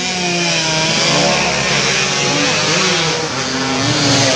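Several two-stroke underbone race motorcycles running hard at high revs, their engine notes rising and falling over one another.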